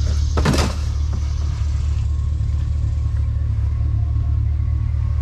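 Truck engine running with a steady low rumble, and a brief clatter about half a second in.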